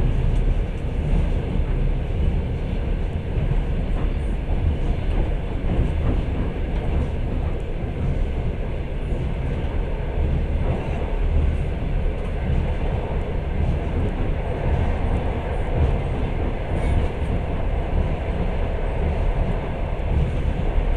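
Passenger train running at speed, heard from inside the carriage: a steady, low running noise of wheels on rails.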